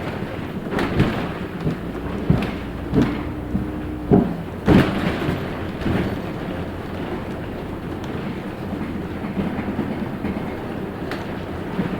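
Cabin noise inside a LiAZ 6213.65 articulated city bus on the move: a steady engine and road rumble with a low hum. Several sharp knocks and rattles come in the first few seconds, then the ride evens out.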